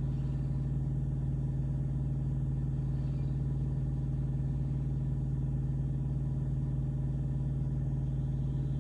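Truck engine and road noise heard inside the cab while driving at a steady speed: a constant low hum with a deep rumble underneath.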